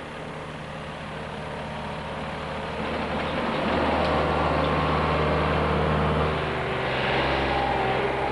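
Engine-powered hydraulic earth block press running steadily. It grows louder about three and a half seconds in.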